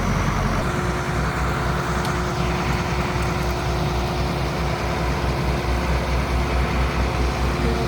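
A heavy engine, such as a truck's, running steadily at idle with a low, even throb.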